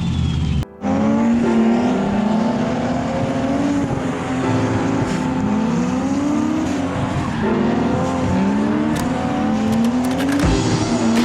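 Turbocharged inline-six drift car engine revving hard, its pitch climbing and dropping again and again as it is driven through corners. There is a sudden brief break about a second in.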